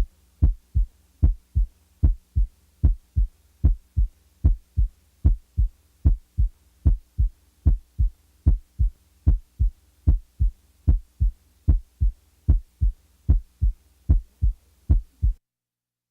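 Heart sounds in a steady lub-dub rhythm of about 75 beats a minute. Each beat is a loud first heart sound followed by a softer second sound, which gives the impression of coming down the musical scale. The beats stop near the end.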